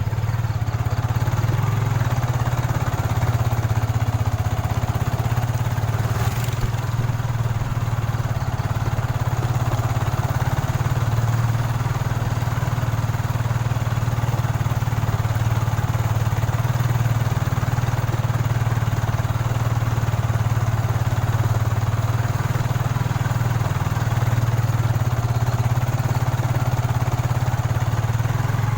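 Motorcycle engine running steadily at an even pace, with a strong low hum.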